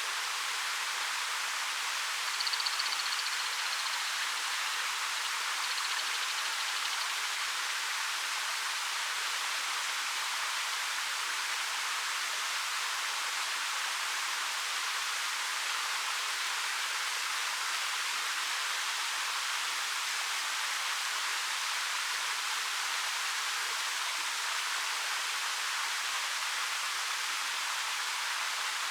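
Waterfall with a 13 m drop over rock, a steady hissing rush of falling water. A brief faint high chirp comes about two and a half seconds in.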